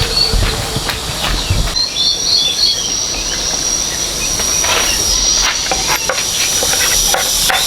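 A steady high-pitched insect drone, with two short runs of bird chirps and scattered light clicks and knocks.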